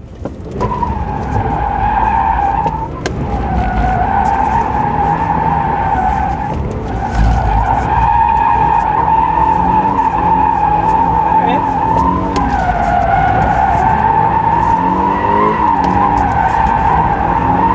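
Tyres of a 2024 Toyota GR86 squealing through a sustained drift, set off by a clutch kick. The car's 2.4-litre flat-four runs at high revs underneath. The squeal starts about half a second in and wavers in pitch, and the engine note rises and falls several times near the end.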